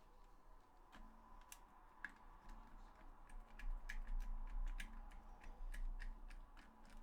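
Light, irregular clicks and taps of a PS4 DualShock 4 controller's plastic shell and parts being handled and worked open, with a low handling rumble in the middle.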